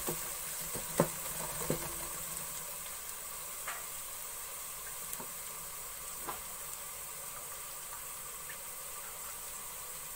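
Sliced onions and garlic paste frying in hot oil in a metal pot, a steady sizzle as the garlic is sautéed with the lightly browned onions. A wooden spoon knocks against the pot twice about a second in, with a few fainter taps later.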